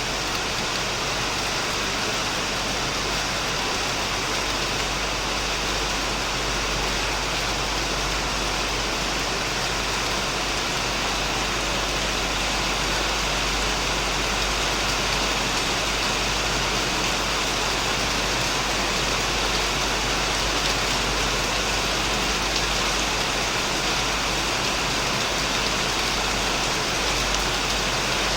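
Heavy rain falling steadily on a shed and surrounding plants: a dense, even hiss of drops that holds constant throughout.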